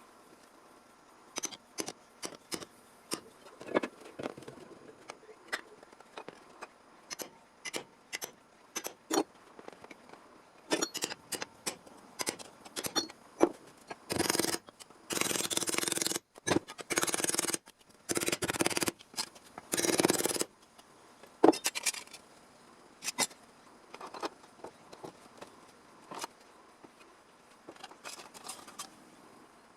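Sheet-metal fabrication work: scattered clicks, taps and scrapes of metal and hand tools, with a run of five or six short bursts of about a second each from a cutting or grinding tool around the middle.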